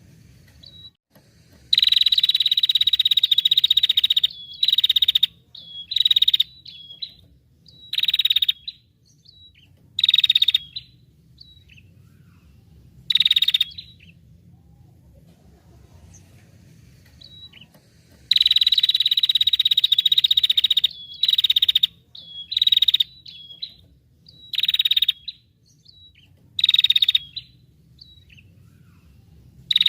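Loud, buzzy songbird calls played as a bird-training (masteran) recording: a long trill of about two and a half seconds, then several half-second bursts spaced a second or two apart, the whole sequence starting over about halfway through.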